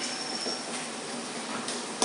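Chicken masala frying in an aluminium kadai, a steady sizzle as the last of its water cooks off, with faint scrapes of a metal spatula stirring it.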